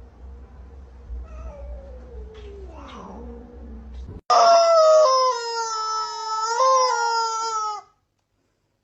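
A cat's long, loud yowl, starting abruptly about four seconds in and lasting about three and a half seconds. Before it, a quieter stretch of low hum with a faint falling call.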